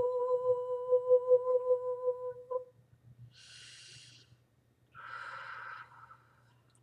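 A woman's voice holding one steady, gently pulsing toned note, which stops sharply about two and a half seconds in, followed by two audible breaths.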